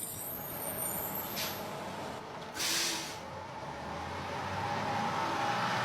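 Bus running with a steady engine drone, and a short loud air hiss about two and a half seconds in.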